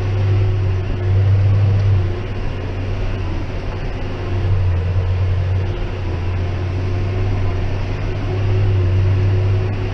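John Deere 6190R tractor's diesel engine working under heavy load from a Claas 3300 big square baler, heard from inside the cab. The low engine note swells and eases repeatedly as it lugs against the baler's plunger strokes, a sign of the high bale-chamber pressure on the baler.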